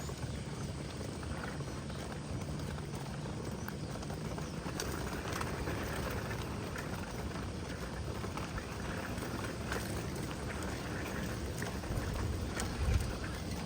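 Steady outdoor ambience of wind and lapping water: an even hiss over a low rumble, with scattered faint ticks and a short louder bump near the end.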